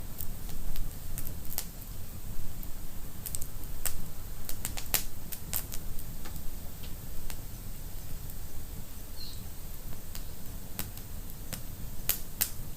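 Wood fire crackling in a fireplace: irregular sharp pops and snaps over the low, steady rumble of the burning fire.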